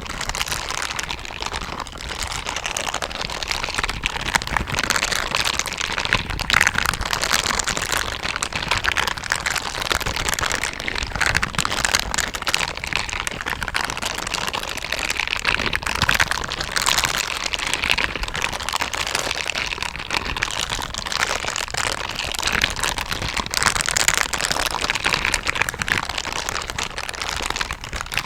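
Silicone brush gloves being rubbed and brushed, their soft bristles making a continuous fine scratchy crackle that swells and eases in waves.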